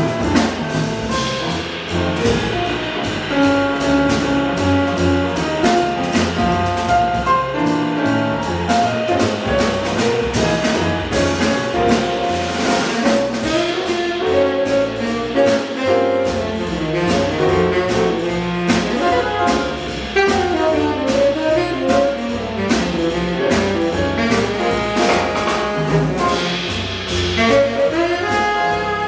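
Acoustic jazz quintet of tenor saxophone, trumpet, piano, double bass and drums playing a bebop tune: a fast horn line runs over double bass and drums, with cymbal strokes throughout.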